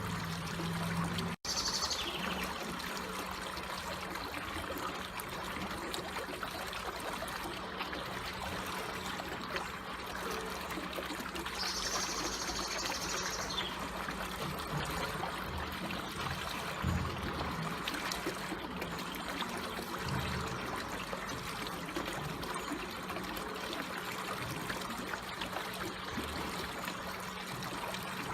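Water trickling and flowing gently and steadily, as in a slow stream. Two short high-pitched calls stand out above it, one near the start and one about halfway through.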